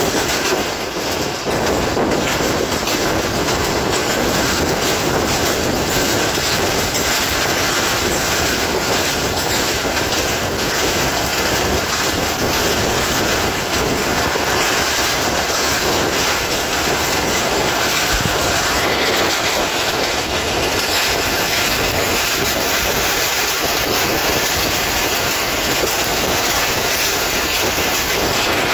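Passenger train running along the track, heard from an open carriage window: a steady rush of wheel and rail noise.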